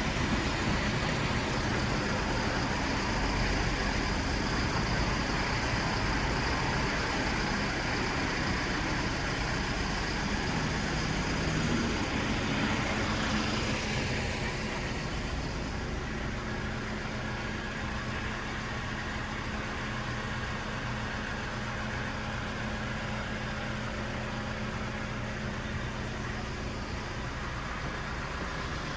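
Steady engine and road noise of a motor vehicle, with a low hum; the higher hiss eases off about halfway through.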